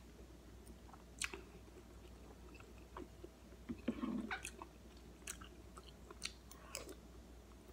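Faint chewing and mouth sounds, with a few short clicks, as a person eats spoonfuls of prawn meatball soup.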